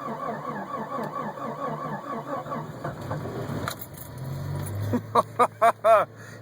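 Starter cranking a Jeep Cherokee's 4.0-litre inline-six in −17 °F cold for about four seconds, a steady rapid chug. The engine then catches and runs, with short vocal exclamations near the end.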